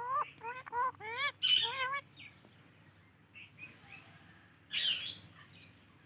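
Parrot calling: a quick run of about six short, bending whistle-like calls in the first two seconds, then one brief harsh squawk about five seconds in.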